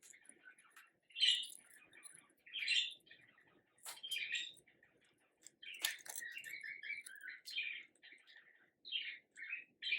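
Sun conure making short, soft chirps and chatter, with two sharp clicks about four and six seconds in.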